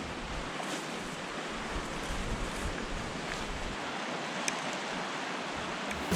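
Steady wash of sea waves on the shore, mixed with wind, with a few faint clicks.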